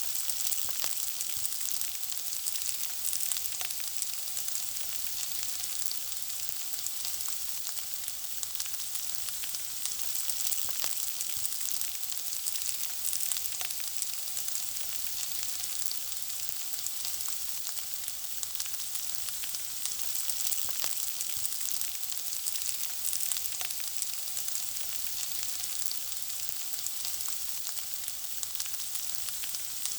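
Food frying in hot oil: a steady sizzling hiss with constant fine crackles and pops.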